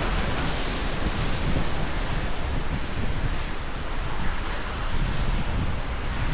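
Steady hiss of heavy rain pouring down, with wind buffeting the microphone.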